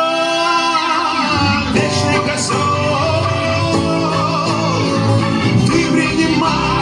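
Live song: a voice holds a long sung note for about the first second, then the band plays on without words, with guitar and a strong bass line.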